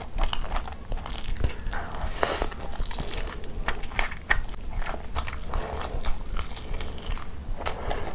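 Close-miked biting and chewing of a fried chicken lollipop: a steady run of short wet mouth smacks and crunches.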